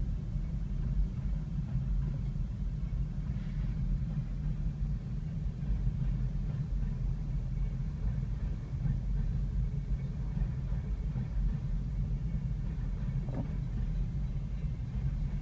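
Freight train of covered hopper cars rolling steadily past a grade crossing, a continuous low rumble, heard from inside a stopped car.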